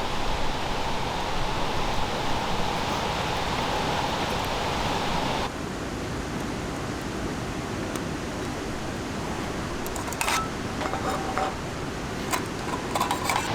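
Steady hissing noise. It drops and changes character abruptly about five and a half seconds in, and a few sharp clicks and taps come near the end.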